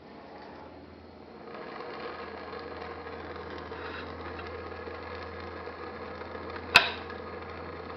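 Small homemade hot air engine (silicone bellows over a steel-wool cup) running, vibrating against an aluminum plate with a steady, fast mechanical buzzing rattle over a low hum. It grows louder about a second and a half in, and one sharp click comes near the end.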